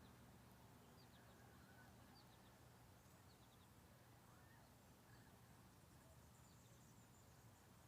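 Near silence: faint outdoor ambience with soft high chirps in twos and threes about once a second, over a low steady hum.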